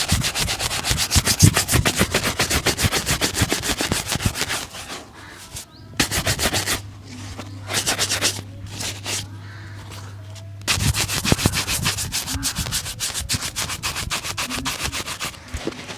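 A shoe being brushed to a shine in quick back-and-forth strokes, several a second, with two short pauses.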